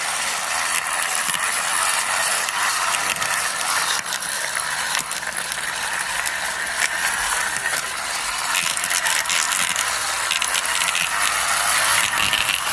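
Toy excavator pushed along by hand, its plastic gears and wheels giving a steady, rapid clicking and ratcheting.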